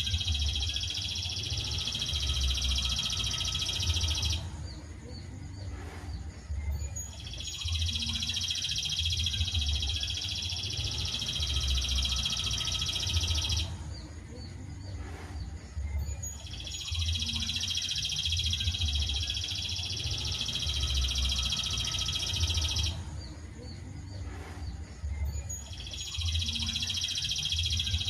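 Songbird song from a looped masteran training recording: long stretches of dense, high-pitched chattering song, each broken by a pause of about three seconds, repeating at an even spacing.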